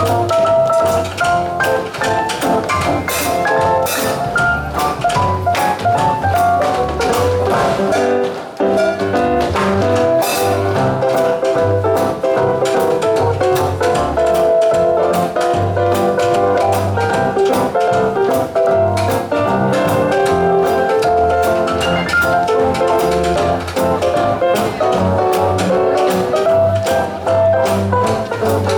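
Swing jazz band playing an instrumental passage, with horn or melody lines over a walking bass and a drum kit keeping a steady swing beat.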